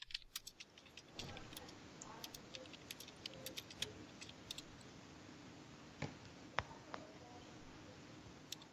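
Faint, irregular clicks of a computer keyboard being typed on, spaced out with pauses, over a low background hiss.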